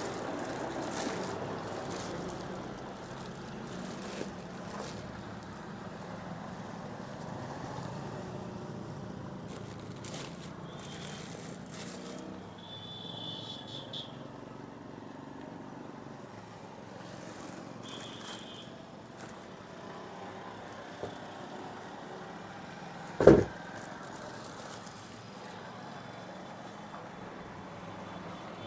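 Steady background rumble of road traffic, with a few light knocks and one sharp, loud knock about 23 seconds in.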